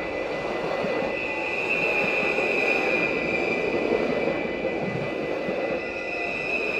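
Electric passenger train running through a level crossing: steady rolling rumble of wheels on rails, with a steady high-pitched ringing tone above it.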